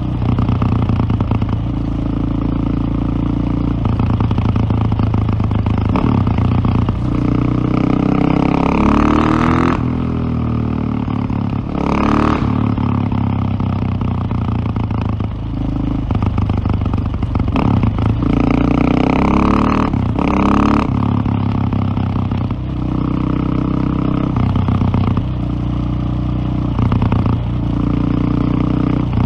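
Single-cylinder KTM motorcycle engine running under way, its pitch shifting in steps with throttle and gear changes. It revs up with a rising pitch twice, about a third of the way in and again about two thirds in, with one short sharp burst in between.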